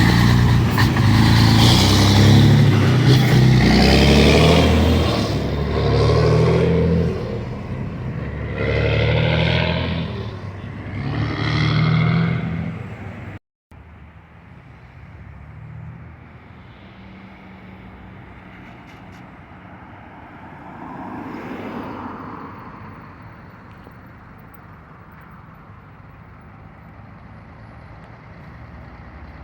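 Scania 113H truck's six-cylinder diesel running loud through a straight-through exhaust with no muffler, revving up and easing off several times as it pulls away. About 13 seconds in it cuts off sharply to a much quieter engine running further off, which swells briefly near 22 seconds.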